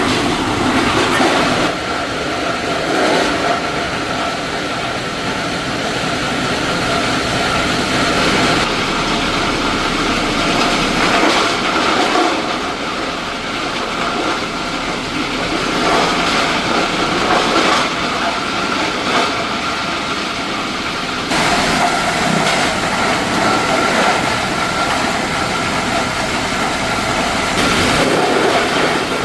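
Plastic-processing machinery running loudly and steadily with a rattling clatter and a steady hum. The sound changes abruptly a few times.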